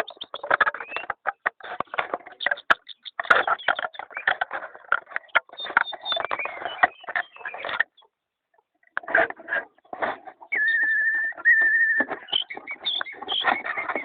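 Pet bird calling in a rapid run of chattering, chirping notes. After a short pause it holds one steady whistled note for about a second and a half, then goes back to quick notes.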